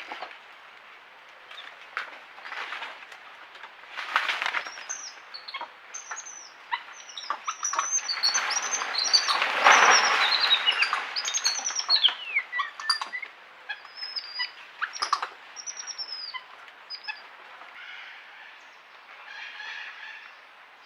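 Forest birds calling: a run of many short, high chirping notes with a falling whistle, mixed with bursts of noise like rustling, the loudest near the middle.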